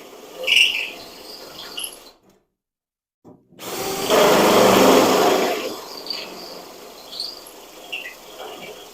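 Electric drill running in short bursts, its bit cutting into the car's body sheet metal, with the loudest run about four seconds in and lighter scraping and clicks between.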